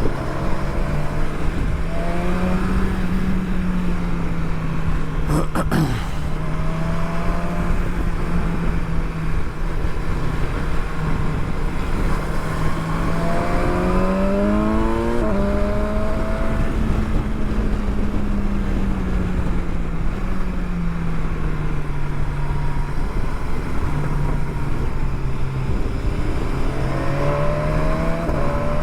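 Motorcycle engine heard on-board while riding, over a steady rush of wind. The engine note rises and falls with the throttle, climbing to a gear change about fifteen seconds in, with a sharp click about six seconds in.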